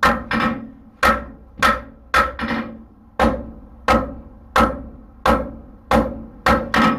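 Hammer blows on hot horseshoe steel on an anvil, about three blows every two seconds, each with a short metallic ring, flattening the end of the shoe into a screwdriver-like blade.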